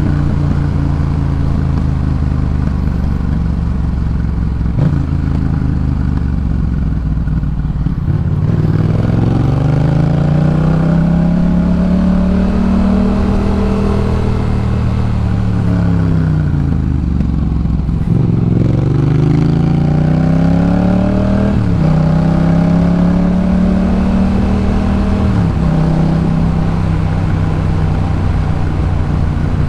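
A 2018 Yamaha MT-07's parallel-twin engine through a Jeskap K4 full exhaust, under way. It runs steadily at first, then its pitch rises and falls back twice as the rider accelerates and eases off. Near the end there are two quick gear changes, each a sudden drop in pitch.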